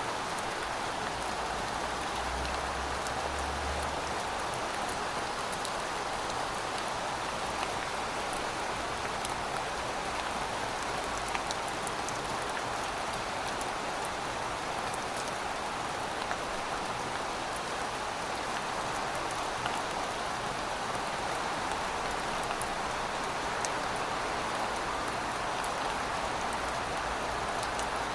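Heavy rain falling steadily, an even dense patter with scattered sharper drop hits on the surface.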